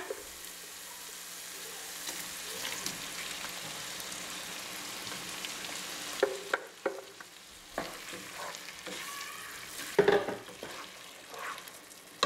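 Red chile and tomato sauce sizzling as it is poured into a hot pot of frying chorizo, sausage and vegetables. From about halfway through, a wooden spatula stirs and scrapes against the metal pot in several short, sharp strokes.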